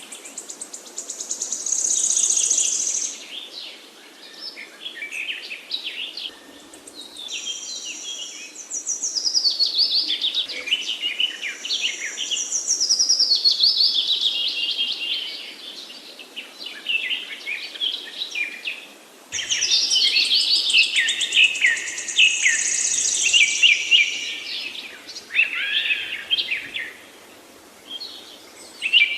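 Several songbirds singing at once in woodland, their high trills, whistles and rapid note runs overlapping.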